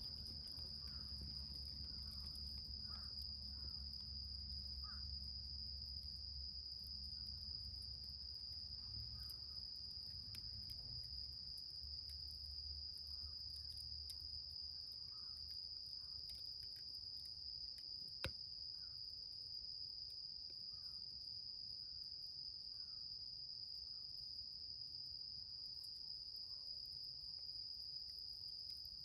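Insects trilling in one continuous, steady high-pitched note, with a low rumble underneath that fades out about halfway through. A single sharp pop sounds a little past the middle.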